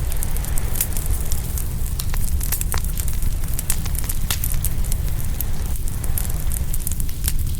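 Open wood fire crackling, with many sharp pops and snaps at irregular intervals, over a steady low rumble.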